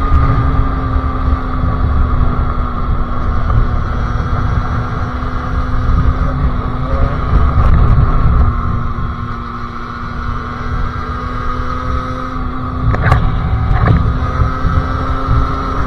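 Sherco SM-R 50cc two-stroke supermoto engine with a KRM expansion exhaust running at steady revs while riding, with wind rumble on the microphone. Two short clicks near the end.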